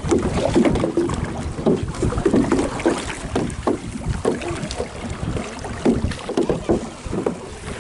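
Canoe paddles dipping and splashing in lake water in irregular strokes, with wind buffeting the microphone.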